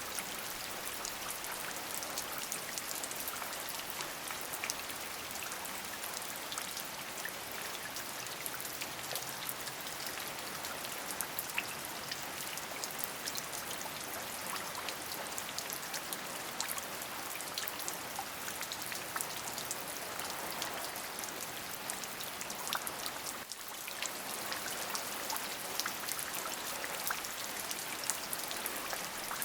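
Steady rain, an even hiss with many individual drops ticking sharply on a surface. The level dips for a moment about three-quarters of the way through.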